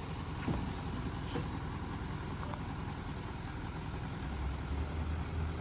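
Truck engine running with a steady low rumble that grows louder about four seconds in, with a couple of faint clicks near the start.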